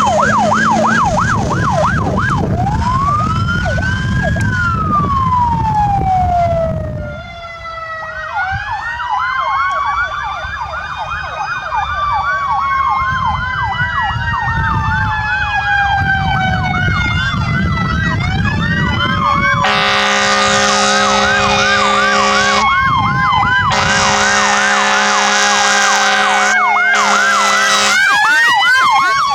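Fire truck emergency sirens sounding together: Whelen electronic sirens switch between a fast yelp and slow rising-and-falling wails, with an EQ2B siren sweeping alongside, over engine rumble. About two-thirds of the way through, a Grover air horn sounds in three long blasts.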